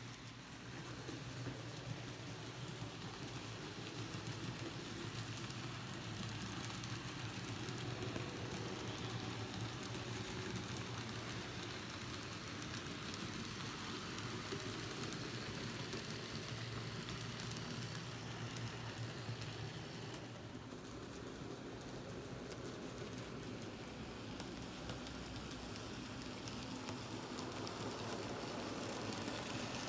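N gauge model train running on the layout's track: the steady whirr of its small electric motor with a light, rain-like patter of wheels rolling over the rails.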